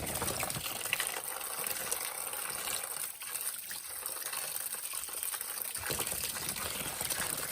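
Water running and gushing steadily, as from a tap, pipe or pour.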